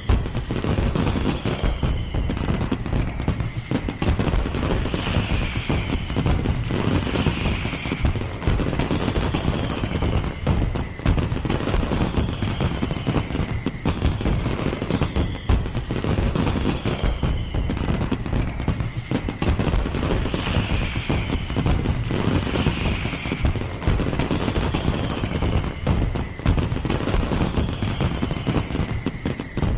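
Fireworks display going off continuously: rapid, dense bangs and crackling with no break.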